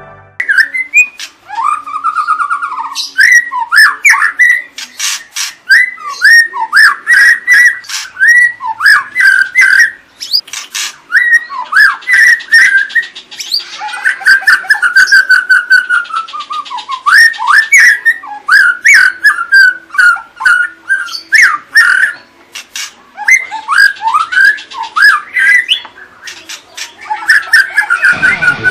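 White-rumped shama (murai batu) singing: a long, loud run of varied whistled phrases and glides mixed with quick sharp chips and clicks, broken by a couple of brief pauses.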